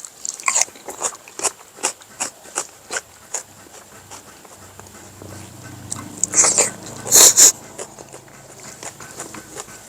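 Close chewing and lip-smacking of someone eating, about three wet smacks a second, with two louder bursts of sound a little past halfway.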